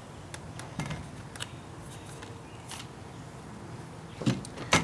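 Scattered light knocks and clicks of fishing gear being handled and set down on a bass boat's deck, with two louder knocks near the end.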